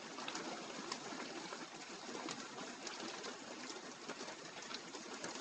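Steady rain falling, with many small drips and patters of water running off the edge of a porch roof.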